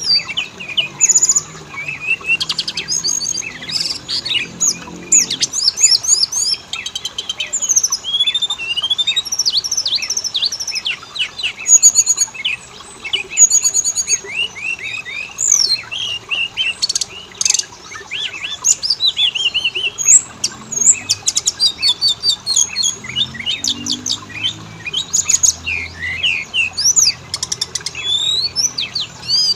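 Oriental magpie-robin (kacer) singing a continuous, varied song of rapid whistles, trills and chirps.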